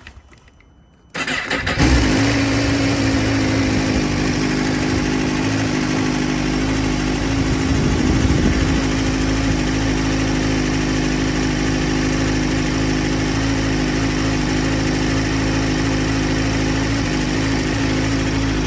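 Suzuki GSX-R1000R inline-four motorcycle engine starting about a second in, catching at once and settling into a steady idle, with a slight rise in revs about halfway through.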